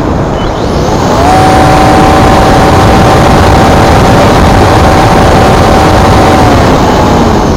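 Electric motor and propeller of a Multiplex Blizzard RC glider whining at a steady high pitch. It rises about a second in and drops away near the end, over heavy wind noise on the microphone.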